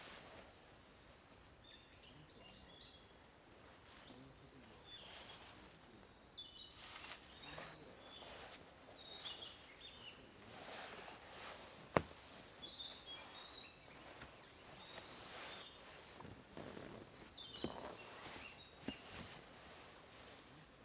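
Small birds chirping on and off, short high calls, over faint intermittent rustling, with one sharp click about twelve seconds in.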